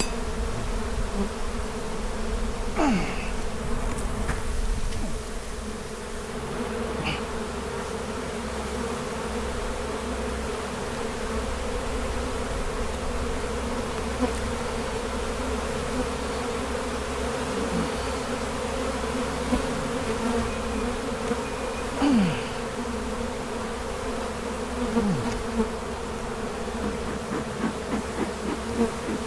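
Honeybee colony buzzing around an opened hive in a steady hum, with single bees flying close past the microphone several times, each a short falling whine. The bees are agitated and not settled by the smoke.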